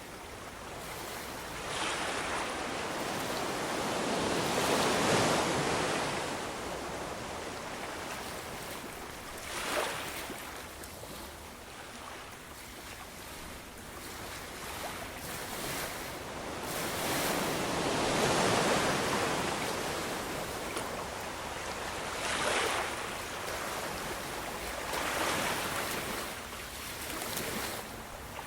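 Ocean surf: waves breaking and washing in, the rush swelling and falling away every few seconds, with the biggest surges about five and eighteen seconds in.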